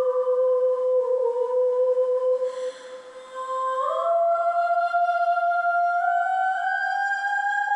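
A woman's wordless voice humming long, held, sad notes. After a short break about three seconds in, the notes step higher and higher.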